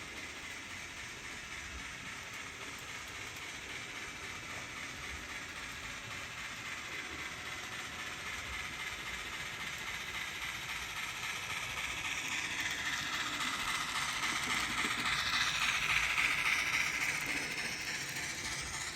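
N scale model train running on its track: a steady rolling hiss and rattle of wheels and motor that grows louder as the train nears, loudest about three-quarters of the way through, then eases off.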